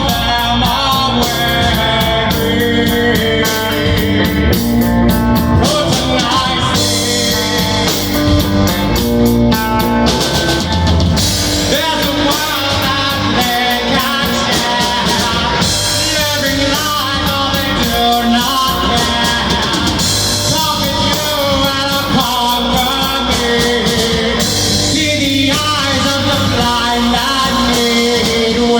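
Rock band jamming: drum kit and guitar with a singing voice, loud and continuous.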